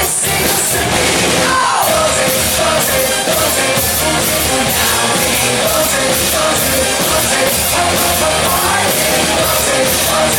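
Loud rock song with singing over a steady, driving drum-kit beat, the drums played live along to the backing track.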